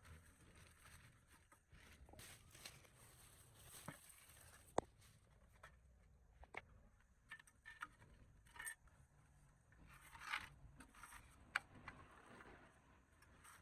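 Faint, scattered clicks, taps and short scrapes of tools and metal parts being handled, with a few sharper clicks.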